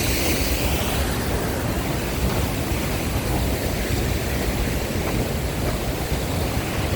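Waterfall's falling water rushing steadily, a dense, even noise with no breaks.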